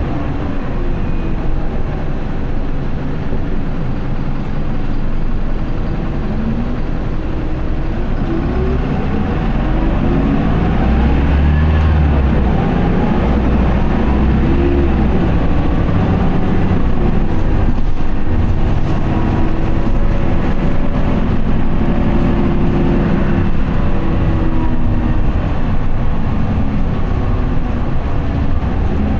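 Diesel engine of an Isuzu Erga QDG-LV290N1 city bus, heard from inside the cabin as the bus pulls away in first gear. The engine note climbs from about six seconds in, then drops and climbs again several times as the automatic gearbox shifts up under hard acceleration in POWER mode.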